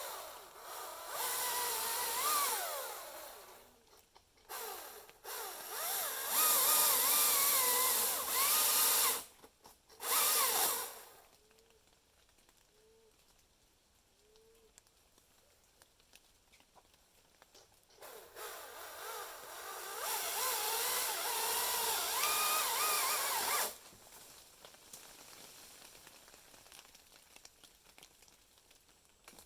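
Chainsaw revving and cutting in three bursts, its engine pitch wavering and dipping as the chain bites, with quieter pauses between the bursts.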